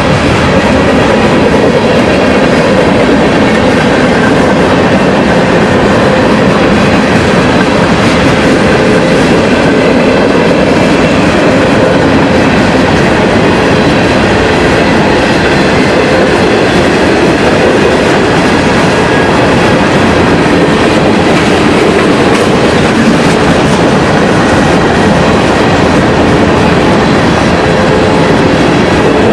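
A train running on the track, a loud steady rumble of wheels on rail that keeps on without a break.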